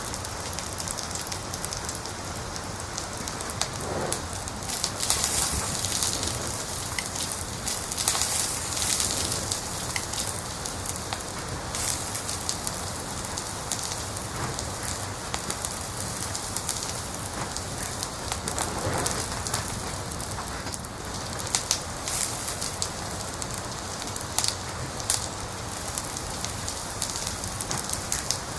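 Wood fire in a fireplace crackling steadily: a constant hiss scattered with sharp snaps and pops, with a few louder pops about two-thirds of the way in.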